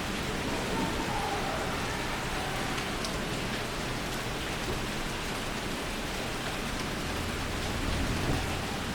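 Steady rain from a rain storm, pouring and pattering without a break. A low rumble swells briefly near the end.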